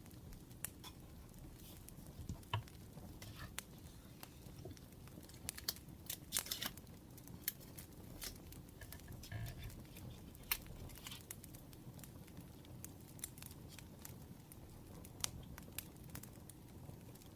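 Firewood crackling: irregular sharp pops and snaps over a low steady rumble, with a quick run of crackles about six seconds in.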